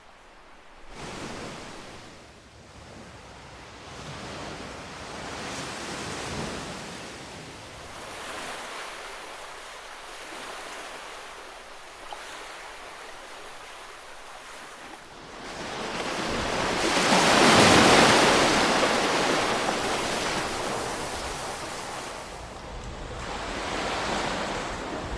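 Ocean waves washing onto a shore: a surf hiss that swells and ebbs, with one larger wave building to a peak about two-thirds of the way through and slowly dying away.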